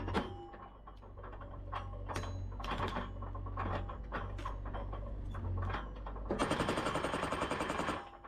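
Excavator-mounted post driver hammering a fence post into the ground, with the Yanmar excavator's engine running underneath. Scattered knocks come first, then from about six seconds in a fast, continuous run of blows lasts about a second and a half.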